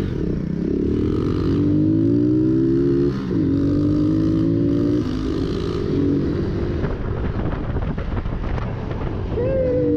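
Motorcycle engine pulling through the gears while riding: the engine note climbs, drops at about three and five seconds as gears change, and climbs again. It turns rougher for a few seconds, then gives a quick rev that rises and settles near the end.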